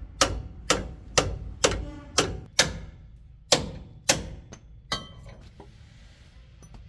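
Hammer blows on steel in truck leaf-spring work, about two a second with a metallic ring, then three slower blows, stopping about five seconds in.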